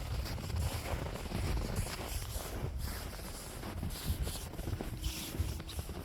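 Wind buffeting the microphone with a gusty low rumble, over the crunch of footsteps walking through snow.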